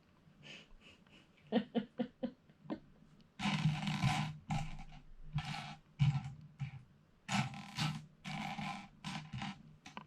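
A few short clicks, then a person's voice making drawn-out, wordless sounds in short bursts from about three seconds in.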